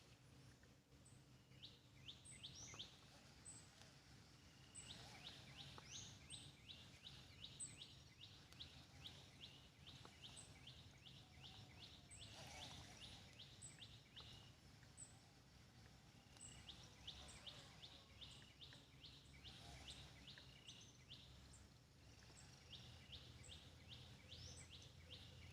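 Faint birdsong in the early morning: one bird repeats a short, very high note about once a second, while another sings runs of rapid chirps lasting a few seconds. A faint steady low hum lies underneath.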